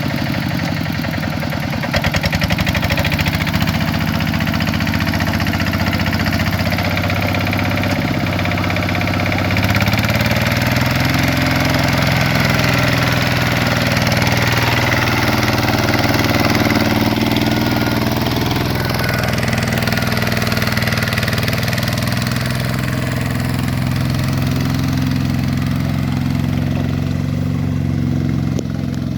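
Truck engine running steadily, loud and rattly, its engine speed shifting a few times: about two seconds in, near ten seconds and again near twenty.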